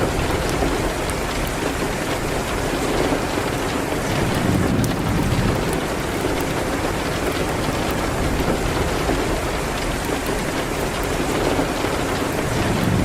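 Steady rain on a window, with scattered small crackles from a fireplace. A low rumble swells twice, about four seconds in and near the end.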